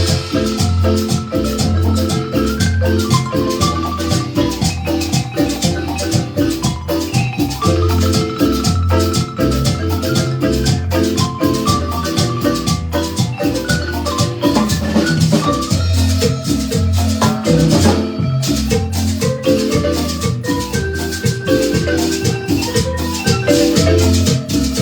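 Marimba ensemble playing a lively piece, with many quick mallet notes over a steady bass beat and percussion.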